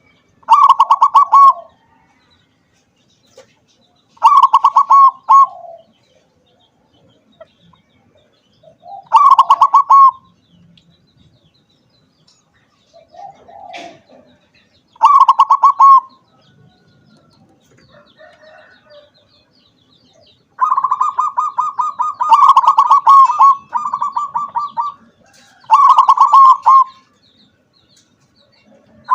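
Zebra dove (perkutut), a local × Bangkok crossbreed, cooing in repeated pulsed phrases, several seconds apart at first and then in a longer run of close phrases about two-thirds of the way through.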